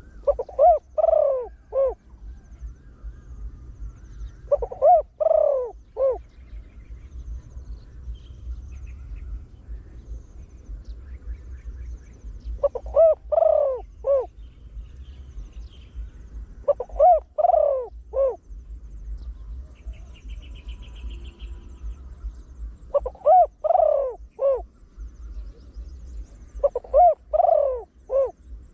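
A trained spotted dove with a deep voice cooing, six phrases of three or four coos each, spaced several seconds apart, every phrase ending on a falling coo.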